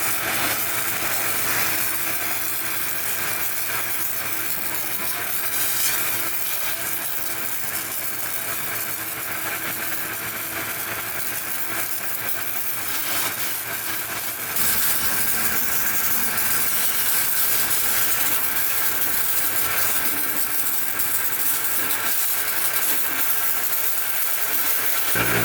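A machine running steadily with a continuous hissing spray over a low hum; about halfway through the low hum gets stronger and stays so.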